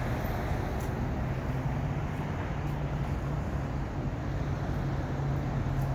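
Motor vehicle engine running steadily, a low even hum with traffic noise.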